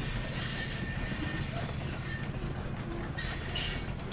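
Train sound effect: the steady rumble of a train running on rails, with a short hiss about three seconds in.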